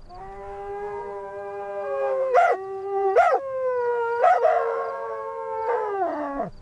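A canine howl: one long pitched call held for about six seconds, broken by a few short sharp yelps partway through, and dropping in pitch as it ends.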